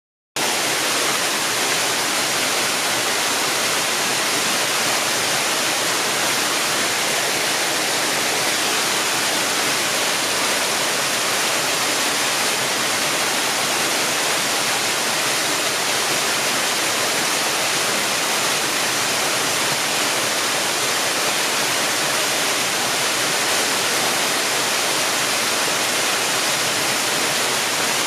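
Waterfall: falling water rushing steadily, a constant hiss with little deep rumble.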